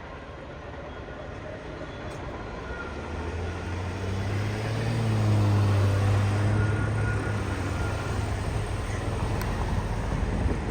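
A vehicle passing close by: a low engine hum that swells to its loudest about five seconds in, its pitch sliding as it goes past, then eases off.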